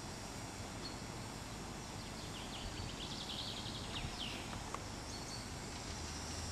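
Outdoor ambience with a short run of small-bird chirps in the middle, over a steady low hum.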